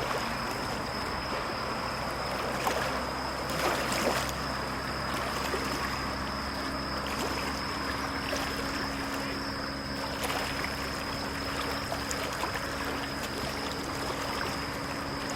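Small lake waves lapping at the shore, a steady wash of water with a few sharper splashes about three and four seconds in and again near ten seconds. A thin, steady high-pitched tone runs under it throughout.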